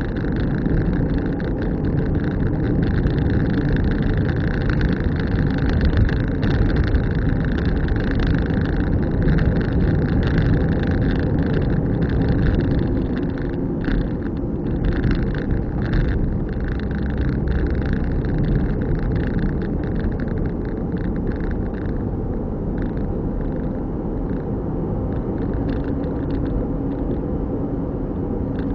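Car driving along a rural road: steady engine and tyre rumble with frequent small crackles from the road surface.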